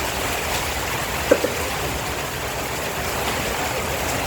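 Steady heavy rain hiss, with two short sharp blips about a second and a half in.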